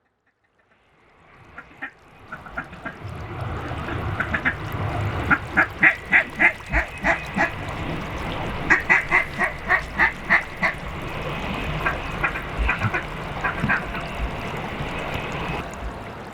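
Mallard-type duck quacking in several runs of about six to eight evenly spaced quacks, over a steady low rumble. The sound fades in during the first two seconds.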